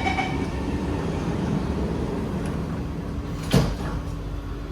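The last beeps of the SMRT C151B train's door-closing chime, then the sliding doors shut with one sharp thud about three and a half seconds in, over the steady hum of the train.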